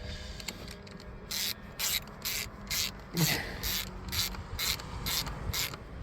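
Ratchet wrench being worked on a battery terminal bolt, its pawl clicking in short bursts on each back-stroke, about ten strokes at roughly two a second, as the terminal is tightened down.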